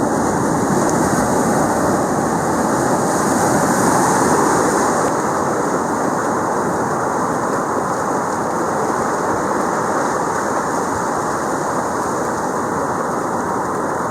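Ocean surf breaking and washing up the beach, a steady rush with one swell louder about four seconds in, mixed with wind noise on the microphone.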